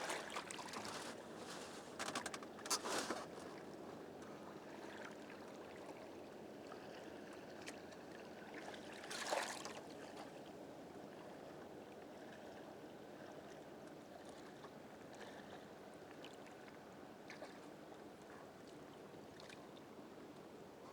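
Faint steady water wash around a paddled kayak, with a few louder splashes about two to three seconds in and again near nine seconds.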